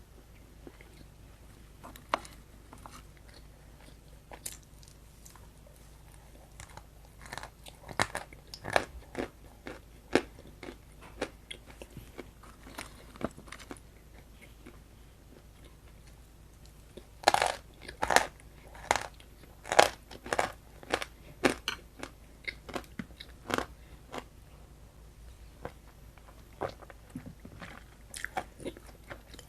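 Close-up biting and chewing of a crunchy food: scattered crisp crunches, which come thick and loud for several seconds past the middle, then thin out again.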